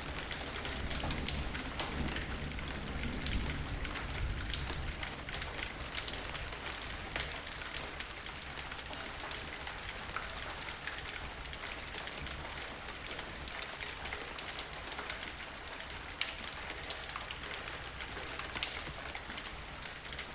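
Steady rainfall on a surface, an even hiss dotted with the sharp ticks of individual drops, with a little more low rumble in the first few seconds.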